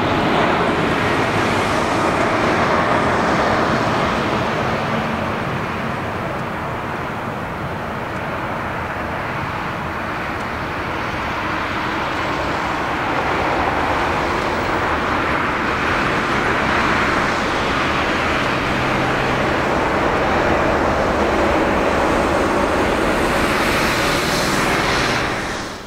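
Jet airliner's engines on landing approach: a loud, steady rushing noise that eases off somewhat partway through, swells again, and cuts off abruptly near the end.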